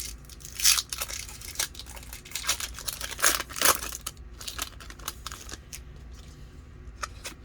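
Foil wrapper of a Pokémon booster pack crinkling and tearing as it is opened, with a louder rip about a second in and another near the middle.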